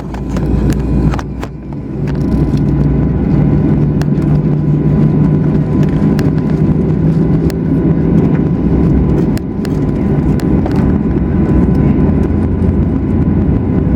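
Cabin noise inside a Boeing 737-800 during pushback and engine start: a loud, steady low rumble with a steady hum and faint whining tones above it, and scattered light clicks. The loudness dips briefly about a second in.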